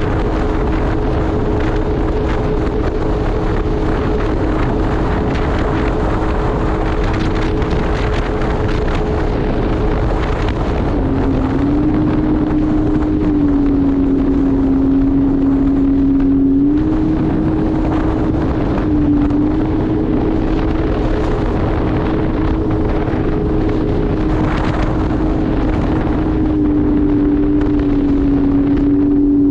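Personal watercraft (jet ski) engine running at speed, its pitch dropping for a few seconds about halfway through and again near the end as the throttle eases. Wind buffets the microphone throughout.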